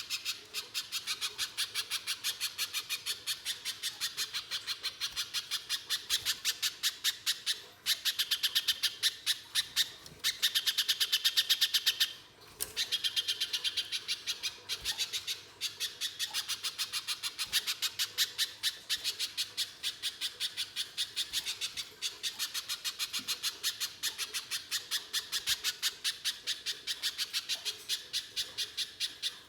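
Little spiderhunter (pijantung pisang) singing long runs of sharp, rapidly repeated high notes, about five a second, broken by brief pauses. This is its rapid 'nembak' song, used to lure or train other spiderhunters into singing.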